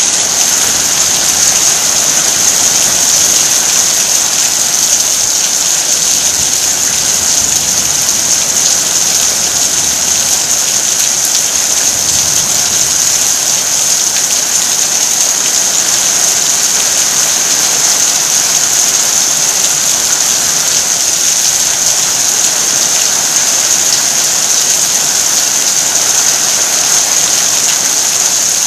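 Heavy rain falling hard and steady, a dense even hiss of drops on surfaces.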